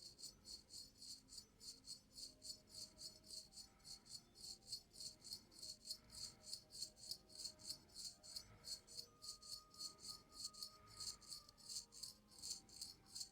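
A razor scraping across the skin in short, quick, even strokes, about three or four a second. Faint background music runs underneath.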